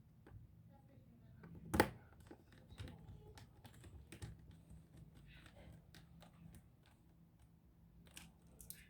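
Scattered light clicks and taps of small parts and plastic being handled on a laptop, with one sharper click a little under two seconds in, over a faint low hum.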